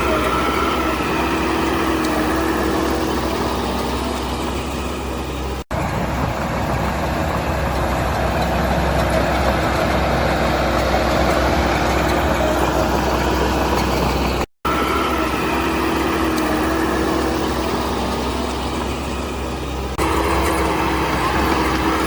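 Heavy diesel construction machinery running steadily with a low engine hum. The sound cuts out briefly twice.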